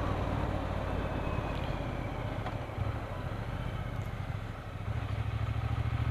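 Triumph Bonneville T120's parallel-twin engine running on the move. The engine note eases off for a couple of seconds mid-way, then picks up louder again about five seconds in.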